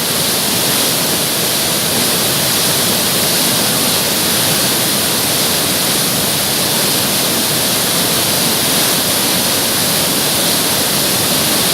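Loud, steady rush of fast-flowing Ganges water surging under high pressure, with no breaks or changes.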